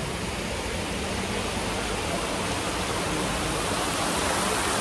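Steady rushing of running water, growing slightly louder toward the end.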